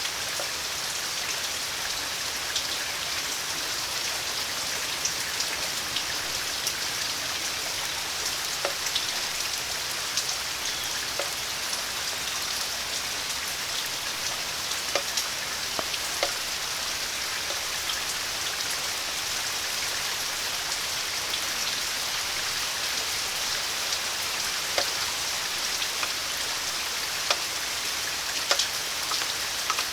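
Steady rain falling, an even hiss scattered with many close, sharp drip ticks of single drops.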